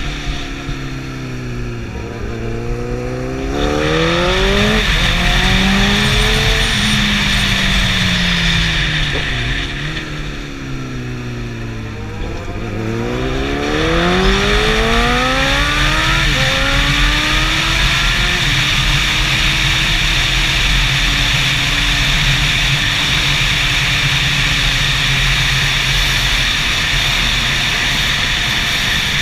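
Superbike engine accelerating hard through the gears, its pitch climbing in runs and dropping back at each shift, twice over. Each run is joined by a loud rush of wind. Near the end the engine holds a steady note under the wind at speed.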